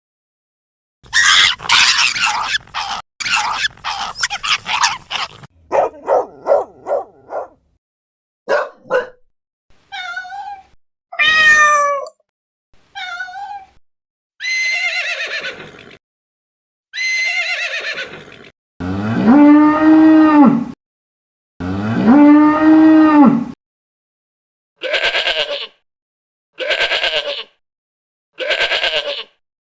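A run of separate animal calls with short gaps between them: a noisy call early on, then rapid repeated calls, several short calls that fall in pitch like cat meows, two long cow moos past the middle, and three short bleats near the end.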